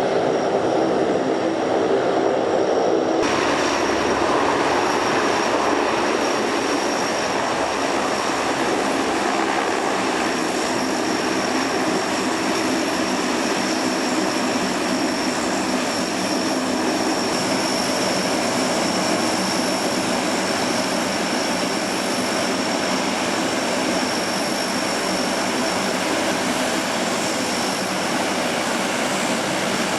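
Lockheed C-130H's four turboprop engines running steadily, a broad roar with a high turbine whine over it. In the first three seconds a lower, humming engine sound is heard instead, then it switches abruptly to this.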